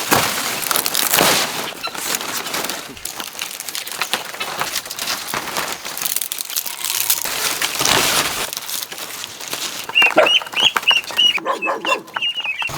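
Poultry calling: a quick run of short, high calls over the last three seconds, after a stretch of clicking and rustling.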